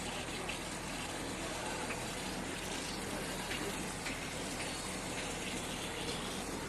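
Steady rushing of wind over the microphone while cycling, with no breaks or sudden sounds.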